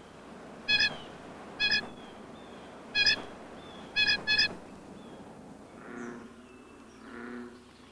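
Waterfowl calling: five short, high calls in the first half, the last two close together, then two fainter, lower calls near the end.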